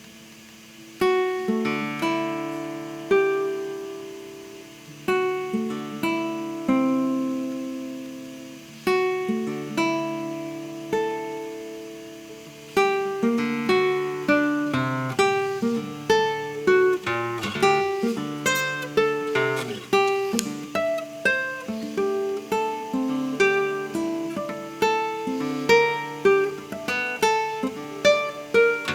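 Solo classical guitar playing a contemporary etude: plucked notes and chords that ring and fade, unhurried at first, then a busier run of faster notes from about halfway.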